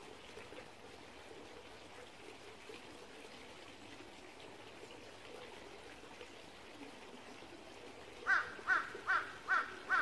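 A bird calls five times in quick, even succession near the end. Under it, a small stream trickles faintly and steadily.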